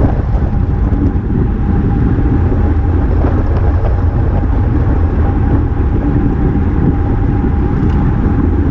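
Wind rushing over a GoPro's microphone on a road bike at racing speed, with tyre and road noise, a loud steady low rumble. A faint steady tone runs through it.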